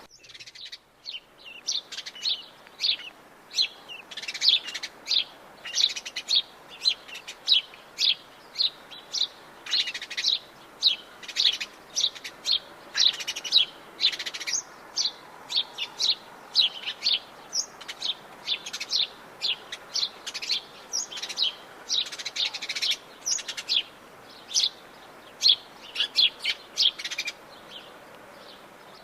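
Atlantic Forest birds chirping and singing: a dense stream of short, high chirps from several birds, a few every second, over a faint steady hiss.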